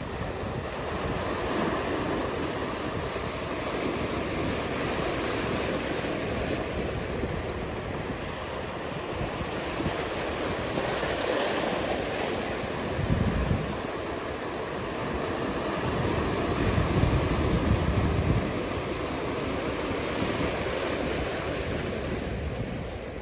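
Ocean surf washing steadily, with wind buffeting the microphone in low rumbles about halfway through and again a few seconds later.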